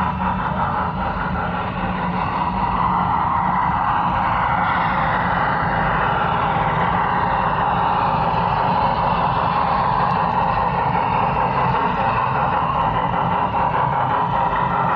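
Model train running along its track: a steady electric-motor whir with wheel and track rumble, a little louder after about three seconds.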